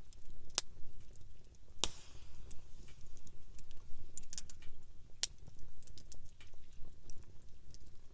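Wood campfire crackling: sharp, irregular pops and snaps over a low steady rumble of the burning fire, with one louder pop about two seconds in.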